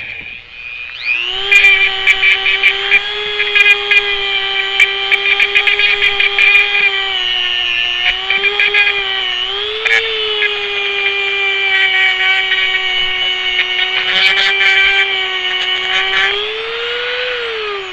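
Dremel rotary tool spinning up about a second in and running as a steady high whine, grinding on metal with scratchy ticks and small dips in pitch as it bears on the part, then spinning down near the end.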